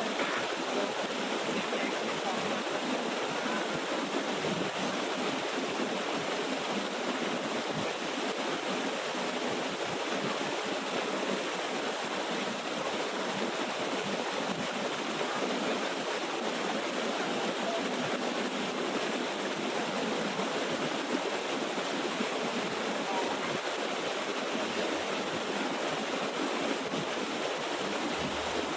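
Small waterfall's water rushing steadily over rocks: an even, unbroken rush.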